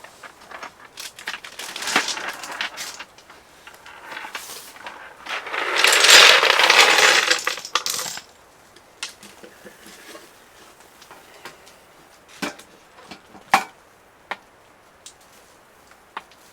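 Small hard objects being handled, giving scattered clinks and clicks, with a loud rough noise lasting about two and a half seconds in the middle.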